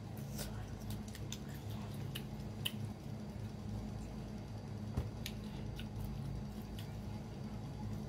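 Close-up chewing of a braised squid tail: scattered soft wet clicks and squishes from the mouth over a steady low hum.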